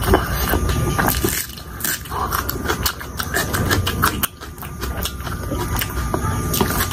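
Close-miked chewing of fried pakoras (battered fritters): crunching with many small crackles and wet mouth clicks, briefly dipping about four seconds in.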